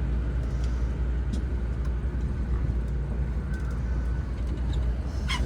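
Running noise of an Odakyu 4000-series electric train heard from inside the car: a steady low rumble with faint clicks, and a short sharp high squeal about five seconds in.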